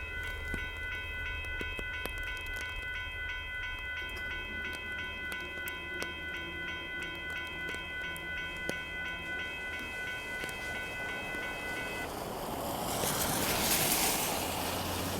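Amtrak Texas Eagle passenger train passing a road crossing. The crossing's warning bell rings steadily over faint regular clicking of wheels on the rails. About twelve seconds in, the bell stops and a louder rushing noise rises.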